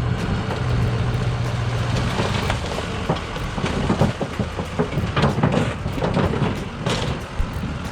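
Lifted Ford F350 diesel truck's engine running, then a run of crunching impacts from about two seconds in as the truck drives over and crushes a car.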